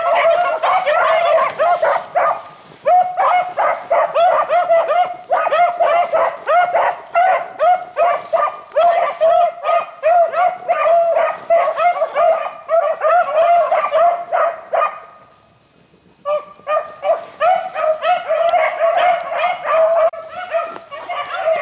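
Rabbit-hunting hound barking rapidly and without a break, with one pause of about a second near the end.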